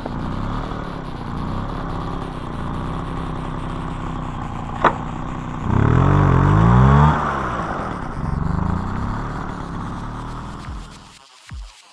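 VéloSoleX 330's small two-stroke engine running, with one sharp click a little before the middle. It revs up and back down once about six seconds in, then fades away near the end.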